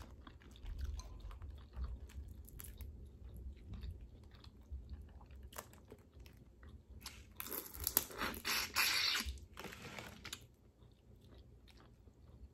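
Close-miked mouth sounds of a person eating from a crawfish boil: chewing and biting with scattered clicks and crunches. A louder, noisier stretch of crunching runs for about three seconds from about seven seconds in.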